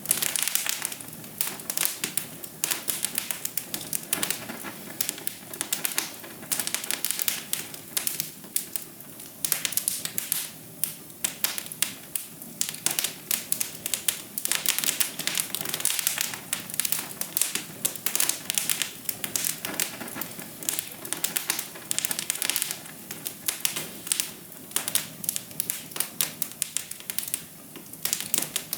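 Wood fire in a fireplace crackling steadily, with a dense, irregular stream of small pops and snaps.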